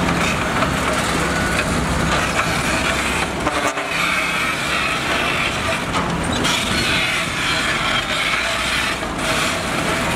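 Heavy diesel construction machinery running and working: a steady engine hum under a dense, noisy clatter, with a brief lull about three and a half seconds in.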